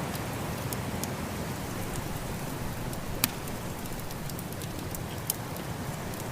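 Wood fire crackling, with scattered small snaps and two louder sharp pops, about three and five seconds in, over a steady rushing of snowstorm wind.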